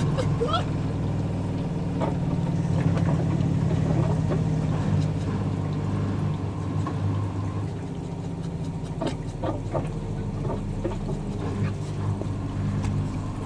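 Washing machines running together with a steady low hum, easing slightly about two-thirds of the way through. Faint short high squeaks come and go over it.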